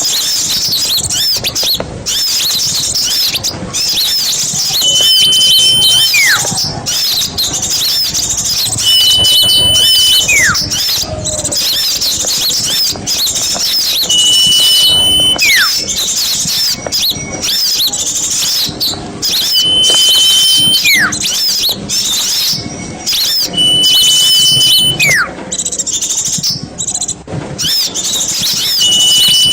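Recorded songs of small songbirds: dense, high, continuous twittering with a long steady whistle about every five seconds, each followed by a short falling whistle, repeating in a regular loop.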